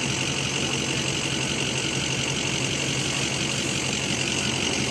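Off-road vehicle's engine running steadily at low revs, an even hum that does not change.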